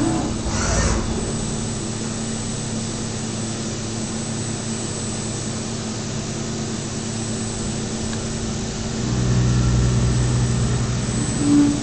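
DMU 65 CNC milling machine running through a flange-milling job with a steady hum and fixed whining tones. There is a brief hiss just under a second in, and a deeper, louder hum sets in about nine seconds in.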